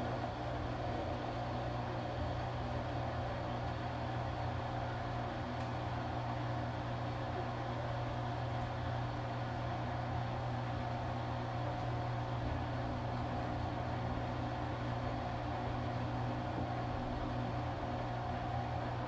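Washing machine running with a steady mechanical hum from its motor or pump, holding an even low pitch with a higher tone above it, then cutting off abruptly at the end.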